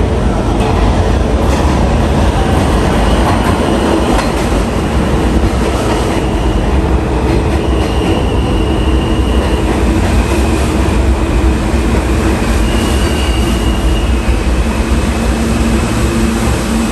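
New York City subway train running through a station, a loud, steady rumble of wheels on track with faint high squeals now and then.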